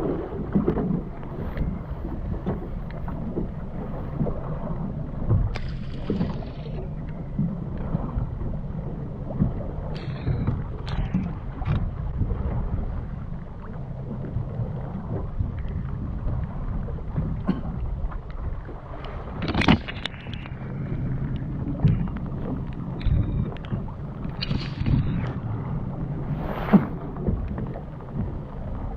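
Fishing boat's engine running steadily at low revs, with wind and water noise and scattered knocks and clatter of gear on board; sharper knocks about twenty seconds in and near the end.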